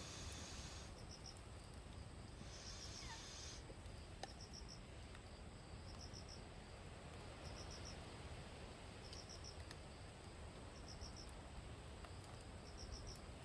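Crickets chirping: short chirps of about four quick pulses repeating every one and a half to two seconds, with a continuous high trill from another insect near the start and again around three seconds in, over a faint low background noise.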